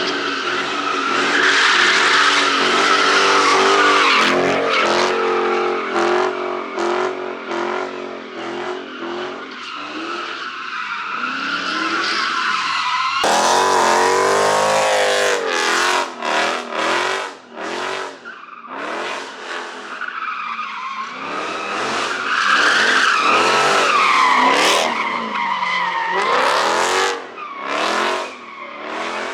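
Muscle car engine revving hard, its pitch rising and falling, while the tires squeal and smoke through a drift. There is an abrupt change about halfway through.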